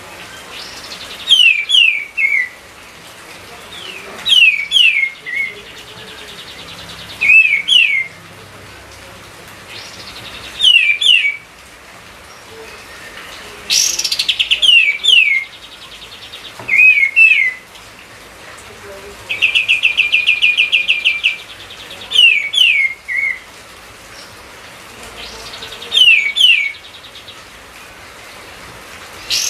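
A kapas tembak singing loud, repeated phrases of two or three sharp down-slurred whistles, roughly every three seconds. About two-thirds of the way through it gives a fast, buzzy rattle for about two seconds.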